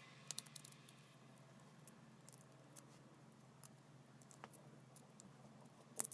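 Near silence with a faint steady hum and scattered light clicks and taps, the sharpest click near the end.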